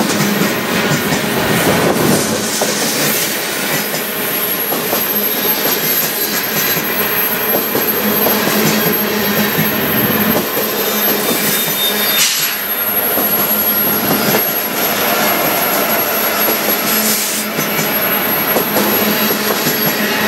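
Loaded CN freight cars rolling steadily past close by: steel wheels on rail clattering over the joints, with a thin high wheel squeal. A mid-train diesel locomotive (distributed-power unit) runs by among the cars in the second half.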